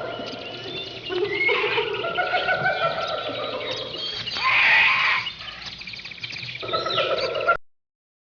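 Several farm animals calling over one another, with bleating calls; the sound cuts off abruptly near the end.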